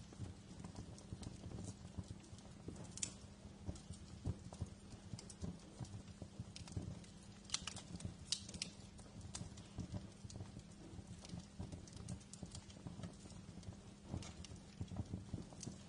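Wood fire crackling in a fireplace: irregular pops and snaps over a low steady rumble, with a few sharper snaps about three seconds in and again around seven to eight seconds in.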